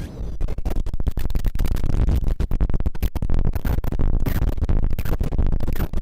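Soma Lyra-8 synthesizer making harsh noise: a dense, rapid stutter of crackles over a heavy low rumble.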